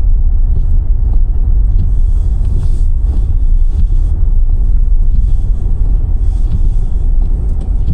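Car driving on a snowy road: a loud, steady low rumble of tyres and engine.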